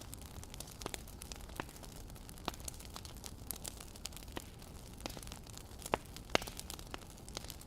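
Wood fire crackling: irregular sharp snaps and pops over a low steady rumble, with two louder pops about six seconds in.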